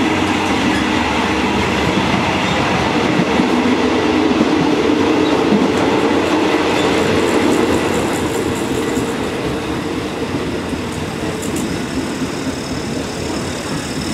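Inside a Thai sleeper train carriage, the steady running noise of the moving train: the wheels on the rails and the carriage's rumble. A few faint light ticks come in the second half.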